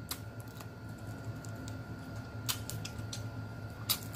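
Mouth noises of a person eating seafood: scattered wet chewing and lip-smacking clicks, with a sharper one near the end, over a faint steady background hum.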